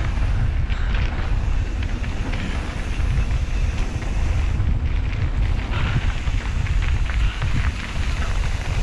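Wind buffeting the microphone of a camera on a moving mountain bike: a steady, fluttering low rumble with faint scattered ticks and rattles.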